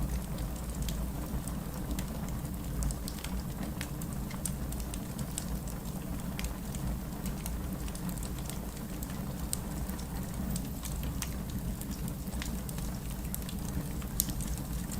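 Steady rain with a wood fire crackling, a low continuous rumble under scattered sharp pops, one louder pop near the end.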